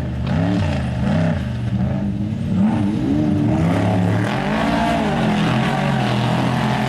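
Off-road race vehicle's engine revving up and down over and over, its pitch rising and falling about once a second as the throttle is worked.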